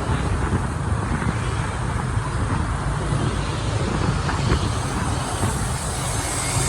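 Motorbike running along in city street traffic: a steady mix of engine and road noise with the rumble of surrounding vehicles.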